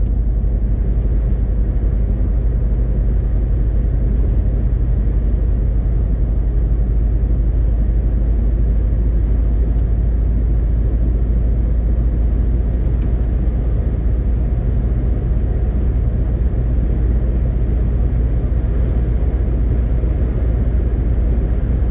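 MAN TGX 18.520 truck driving at a steady speed: an even, deep drone of its six-cylinder diesel engine mixed with road and tyre noise.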